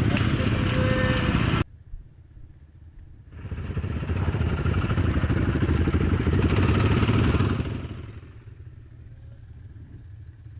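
Quad engine running loud under throttle, stopping abruptly about a second and a half in, leaving a low idle. About three seconds in it revs up loud again for some four seconds, then drops back to a low idle near the end.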